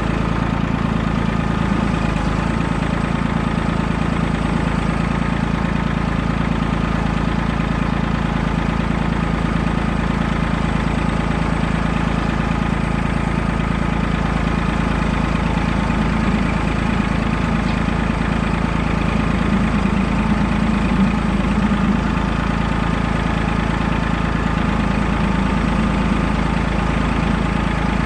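Tractor engine running steadily at an even speed, close by.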